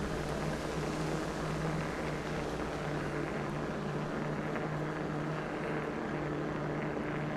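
E-bike's electric assist motor humming at a steady pitch while riding, over a hiss of tyre and wind noise.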